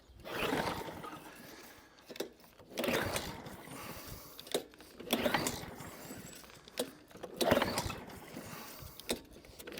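Old Mountfield rotary lawnmower pull-started four times, about every two seconds: each pull gives a whirring rattle from the recoil starter, with clicks in between. The engine turns over without firing, the sign of a mower that won't start.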